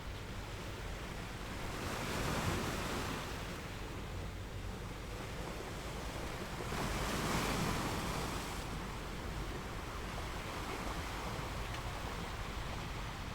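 Sea waves breaking and washing on a shore, with two larger waves swelling and receding, one about two seconds in and a longer one about seven seconds in, over a steady rush of surf.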